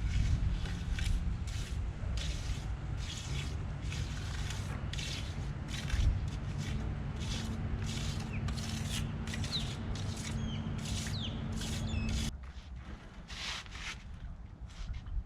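A motor running steadily under repeated short scraping strokes, a few a second; the motor cuts off suddenly about twelve seconds in while the scraping goes on.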